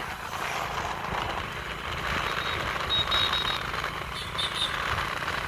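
Hero Splendor Plus motorcycle running on the road, its small single-cylinder engine under steady wind and road noise. A few short high beeps come about three seconds in and again near the end.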